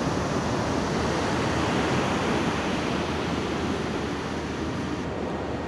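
Ocean surf washing onto the beach: a steady, even rush of waves that eases slightly near the end.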